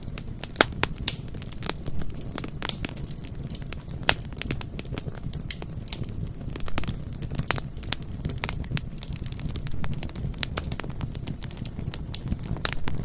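Bonfire burning: irregular sharp crackles and pops of burning wood over a steady low rumble of the flames.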